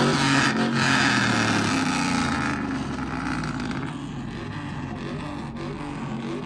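Motor vehicle engine running, loud for the first couple of seconds and then fading to a lower, steady level.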